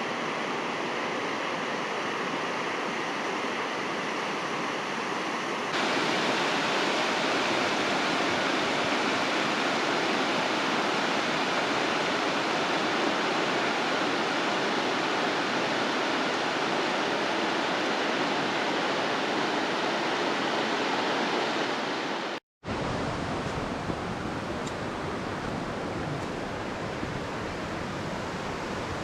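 Mountain stream rushing steadily, running high after rain. The sound steps up in loudness about six seconds in and breaks off briefly about 22 seconds in before carrying on a little quieter.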